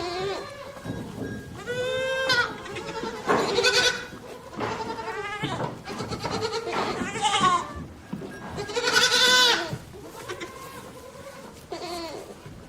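Goats bleating: about six quavering calls at different pitches, some overlapping, as from several animals.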